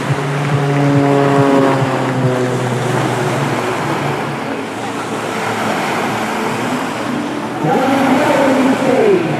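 CAP 231 aerobatic plane's six-cylinder piston engine and propeller running, its pitch shifting as it manoeuvres. It gets louder late on, with a sharp falling glide in pitch near the end.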